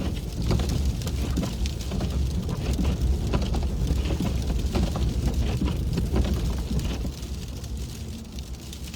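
Cabin noise of a car driving through slush: a low tyre and road rumble, with sleet and slush spattering and ticking on the windshield. It eases slightly near the end.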